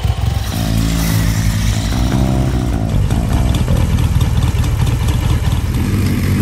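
Classic motorcycle engine running, first a 1969 Triumph Trident T150's three-cylinder engine; about three seconds in, the sound changes to a BSA motorcycle's engine running.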